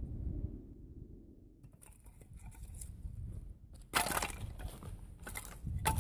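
Firewood cracking and breaking: a loud, drawn-out crack about four seconds in, then two shorter cracks near the end.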